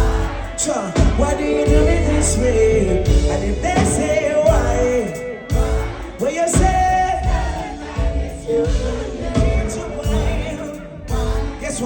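Live reggae band playing with a lead vocal over strong bass.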